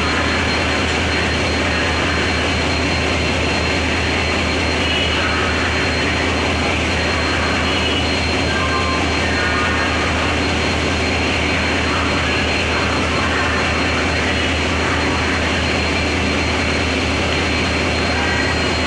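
WDG4 diesel locomotive's 16-cylinder two-stroke EMD 710 engine running with a steady, even hum, a thin high whine held constant above it.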